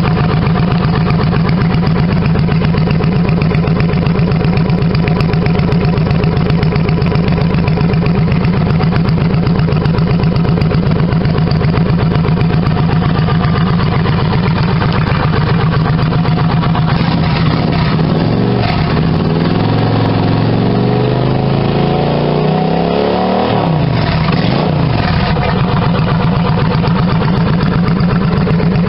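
Honda Shadow 750 V-twin motorcycle engine with aftermarket One Way Customs exhaust pipes, idling with a steady pulsing beat. About two-thirds of the way through it is revved up, the pitch climbing for a few seconds, then drops back to idle.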